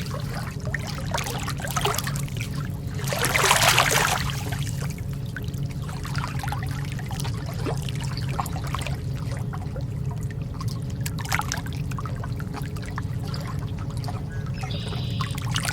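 Lake water lapping and trickling against the shore, with a louder wash about three seconds in.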